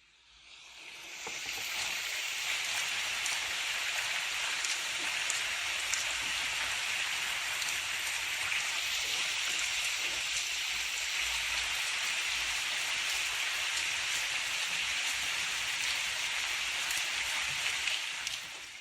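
Steady rain, a dense even hiss of falling drops, fading in over the first second or so and fading out near the end.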